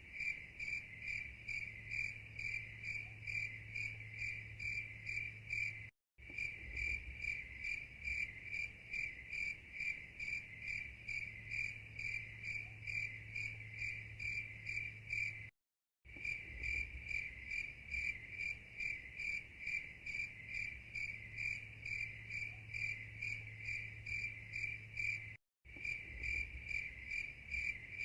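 Cricket chirping in a rapid, even run of high-pitched chirps over a faint low hum, cutting out briefly three times.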